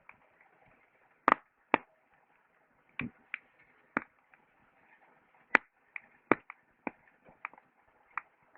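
Wood campfire crackling, with irregular sharp pops and snaps from the burning wood, about a dozen of them, over a faint steady crackle.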